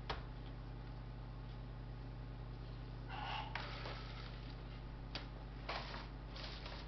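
A few sharp clicks and short scratchy handling noises from taking a laptop apart by hand, over a steady low electrical hum.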